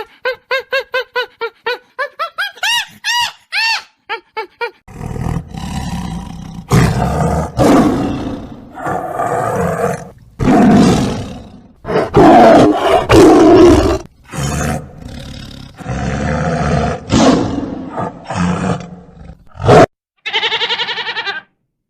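A series of lion roars and growls, loud and rough, each lasting a second or two. They follow a quick run of high, evenly repeated chirping calls in the first few seconds, and a short wavering call comes near the end.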